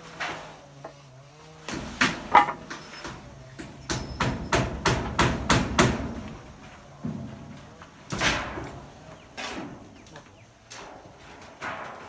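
Hammer blows, irregular sharp strikes with a quick run of about three a second in the middle, as in nailing during house repair work.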